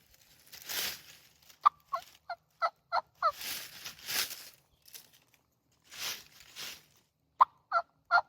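Turkey yelping in two series of short, sharp notes, about three a second: one near the start and another starting near the end. Soft rustling noises fall between the series.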